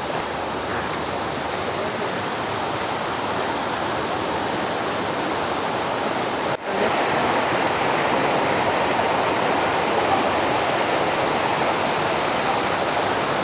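Small waterfall: water pouring over a rock ledge and falling, a steady rushing noise. It drops out for an instant about halfway through and is a little louder afterwards.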